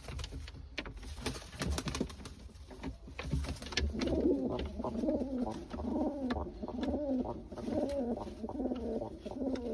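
Tumbler pigeons cooing: repeated low, wavering coos overlapping one another from about three and a half seconds in, with scattered sharp clicks and taps before that.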